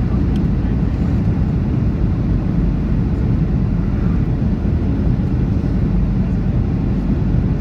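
Steady low roar inside the cabin of a Boeing 737-800 on final approach, with its CFM56-7B engines running, landing gear down and flaps extended. It is engine and airflow noise heard from a window seat.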